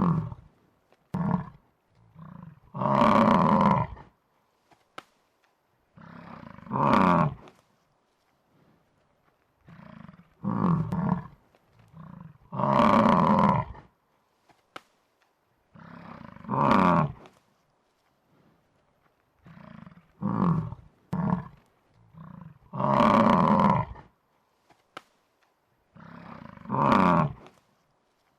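Buffalo bellowing in a looped sound effect: loud calls about a second long every three to four seconds, with short grunts between, the same sequence repeating about every ten seconds.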